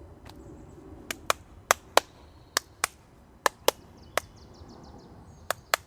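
About a dozen sharp, short clicks or taps at irregular intervals, some in quick pairs.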